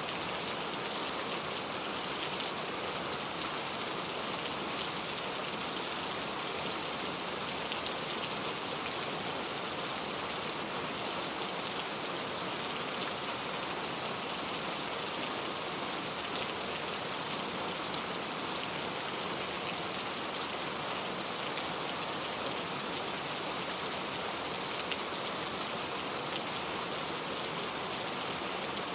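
Steady rainfall, a dense even patter of many drops.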